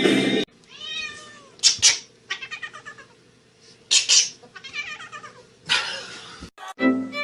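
A cat meowing in drawn-out, rising-then-falling calls, twice, with short noisy bursts and a quick run of pulsing sounds in between. Music stops just after the start and comes back near the end.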